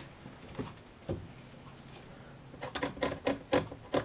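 Light knocks and rubbing from wooden boards being handled and set in place: a couple of single knocks, then a quick run of small clicks and taps near the end. No saw is running.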